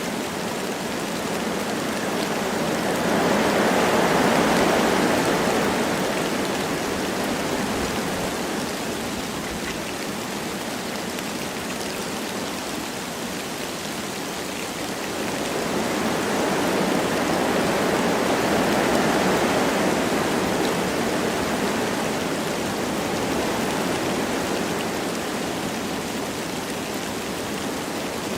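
Wind blowing through forest trees with light rain falling: a steady rushing noise that swells in two slow gusts, one a few seconds in and one past the middle.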